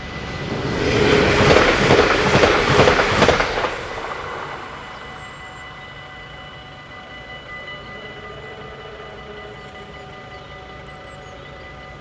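A train passes a Dutch level crossing, loudest from about one to four seconds in, then fading away. Steady ringing from the crossing's warning bells runs underneath throughout.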